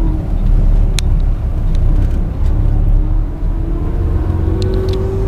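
Engine and road rumble heard from inside a moving tour coach, steady and low, with the engine note rising slightly near the end. A small click about a second in.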